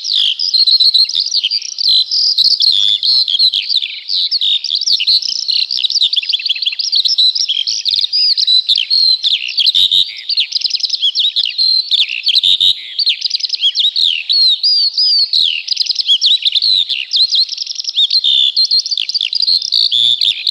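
A dense chorus of many songbirds singing at once, rapid chirps and short whistled sweeps overlapping without a pause.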